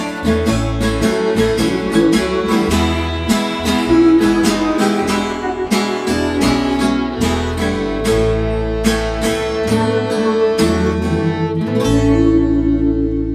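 Acoustic string band (acoustic guitar, fiddle, electric guitar and bass) playing an instrumental passage, with steady strummed acoustic guitar over a bass line. About 12 seconds in the strumming stops on a final chord that is held and rings out.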